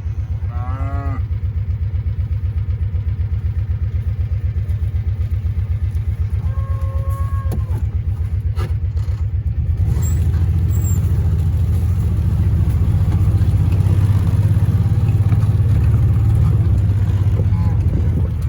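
An engine running steadily, its low pulsing growing louder about halfway through, with cattle mooing over it near the start.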